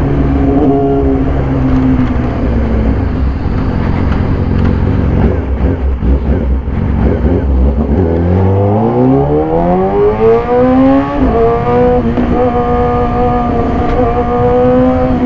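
Yamaha YZF-R6 inline-four with an SC-Project aftermarket exhaust, ridden hard. About eight seconds in the engine revs up in a steeply rising wail for about three seconds. It then drops in pitch at a gear change and holds a steady note at higher speed.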